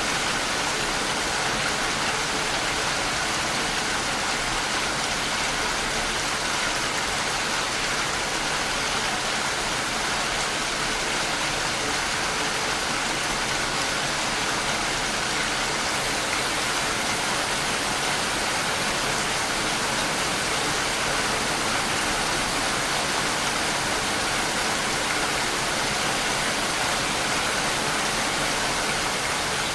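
Steady rainfall, an even rushing hiss with no single drops standing out.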